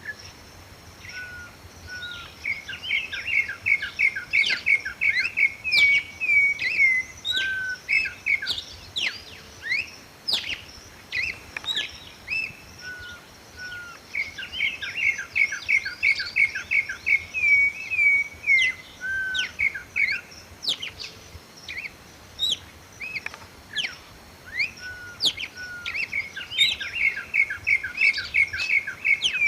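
Campo troupial (corrupião) singing: the same whistled phrase, a couple of lower slurred notes and then a fast run of short notes that ends in slurred whistles, repeated about every twelve seconds, three times in all. Sharp single chirps are scattered between the phrases.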